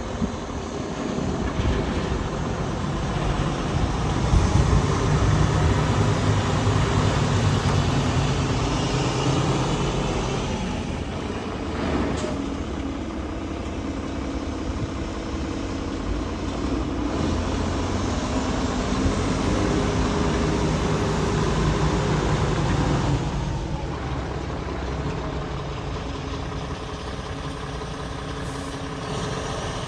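2005 Mack CHN613 road tractor's diesel engine running throughout, growing louder for a few seconds from about four seconds in and again later before settling back. A sharp click about twelve seconds in.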